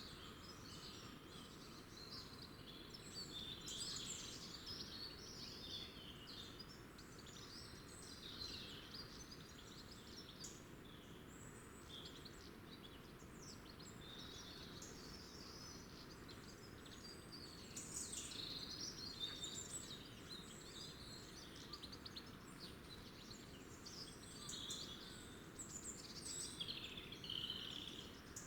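Small garden birds chirping and twittering, with calls overlapping throughout and busiest near the middle and end, over a faint steady low background rumble.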